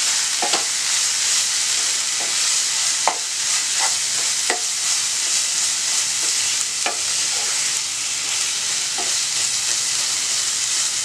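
Minced chicken stuffing sizzling in a nonstick pan, stirred with a wooden spatula that scrapes and knocks against the pan now and then.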